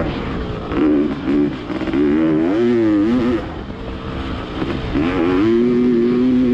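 Honda two-stroke motocross bike's engine under hard riding: a few short throttle blips about a second in, a climbing rev to around three seconds, a brief back-off, then revving up again and held near the end.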